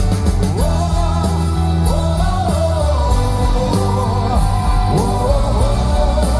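Live gospel worship band playing a rock-style backing over a steady bass, with a voice singing long sliding notes without clear words.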